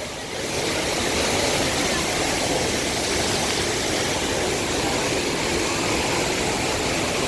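Rhine Falls waterfall: a steady, even rush of heavy water falling, with no break or change.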